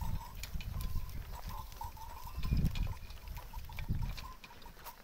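Bullocks working at the plough, with a short ringing note repeating a few times a second over a low rumble that swells about halfway through and fades near the end.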